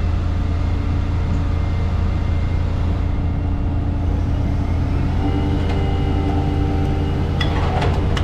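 Scrap-metal guillotine shear and its crane running with a steady low machine drone. The drone's pitch steps up about five seconds in, and metal clanks and rattles come near the end as scrap is chopped.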